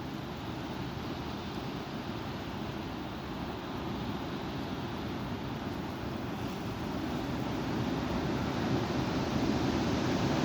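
Strong wind blowing in a steady rush, growing louder over the last few seconds.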